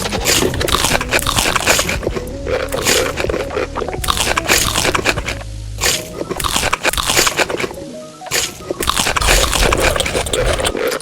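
Crunchy food being bitten and chewed close to the microphone, dense irregular crackling with brief pauses, over background music.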